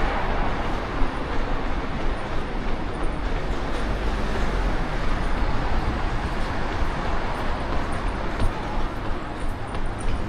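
Steady street traffic noise, with a constant deep rumble underneath; a louder hiss of a passing vehicle fades away at the very start.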